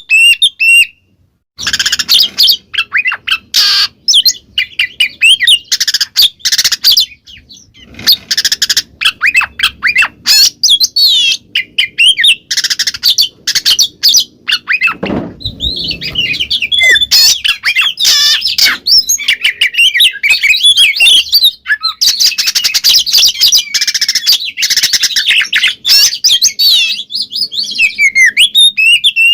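Oriental magpie-robin (kacer) singing loudly in the full-voiced 'ngeplong' style: a rapid, unbroken stream of varied whistles and chirps, with a brief pause about a second in.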